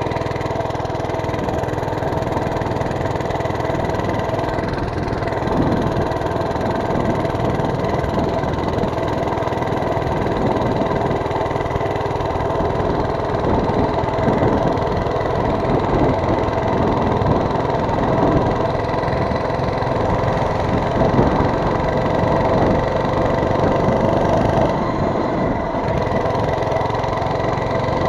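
Mini bike's small engine running steadily while being ridden, its pitch wavering slightly up and down.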